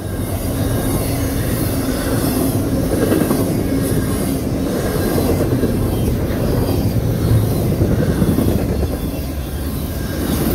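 Double-stack intermodal freight train's well cars rolling past, a steady loud rumble of steel wheels on the rails.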